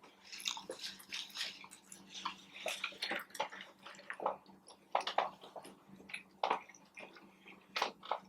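A person chewing food close to the microphone: irregular wet mouth clicks and smacks, with a few sharper ones, over a faint steady low hum.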